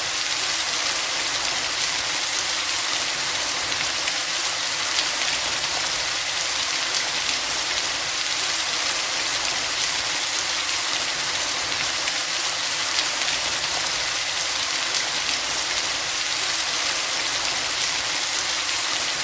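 Steady monsoon rain falling: an even, unbroken hiss of drops that stays level throughout.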